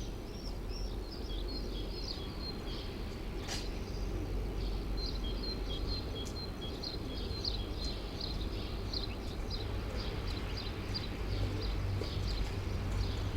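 Small birds chirping in quick, repeated short notes over the steady low rumble of city traffic; the rumble grows a little louder near the end.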